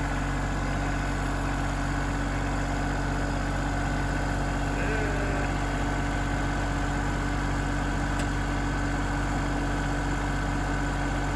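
John Deere 2210 compact tractor's diesel engine running at a steady, unchanging speed, a low even hum.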